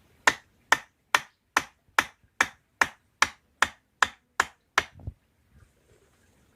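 About a dozen sharp, evenly spaced knocks, a little over two a second, like repeated chopping or hammering blows, ending with one duller, lower thud.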